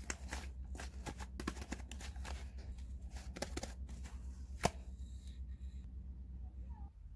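Hands rustling and handling a light, crinkly material, with many quick crisp clicks and taps and one sharper tap about four and a half seconds in, over a steady low hum that stops near the end.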